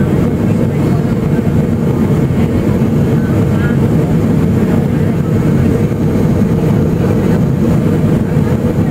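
Steady low cabin noise inside a Boeing 757 airliner in flight: engine and airflow noise.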